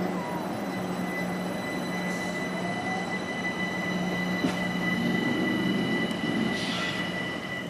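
A train running on the rails: a steady rumble with a constant high-pitched whine and a low hum over it.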